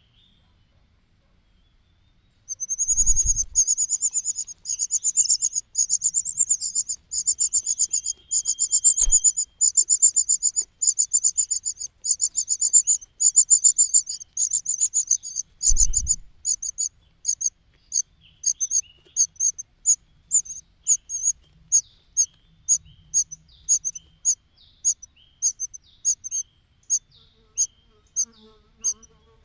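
Nestling birds' high-pitched begging calls: a rapid continuous trill starting about two seconds in, which breaks after about 16 seconds into short separate calls, roughly two a second. Two soft low thumps come as the calling starts and again where it breaks up.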